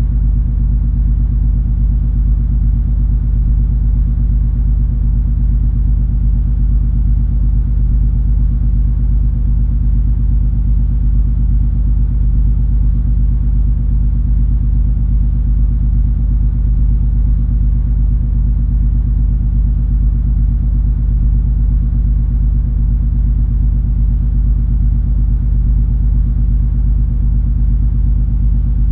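Steady low rumble and hum of the cruise ferry MS Color Magic under way, its engine and hull noise running evenly without change.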